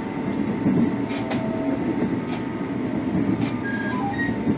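Running noise inside a moving ex-Tokyo Metro 05 series electric train car: a steady rumble of wheels and motors, with a thin steady whine over it. There are a few light clicks and rattles, the sharpest about a second in.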